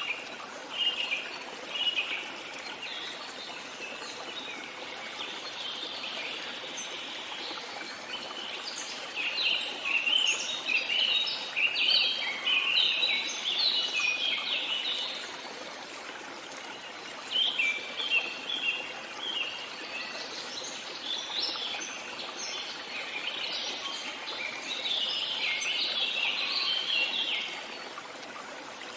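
Songbirds chirping and singing in quick bouts of short notes, busiest in the middle and again near the end, over the steady hiss of a running stream.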